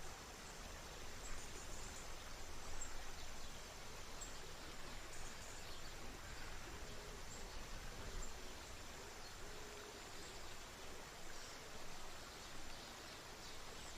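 River water running with a steady hiss, under a constant high-pitched insect drone and scattered faint bird chirps.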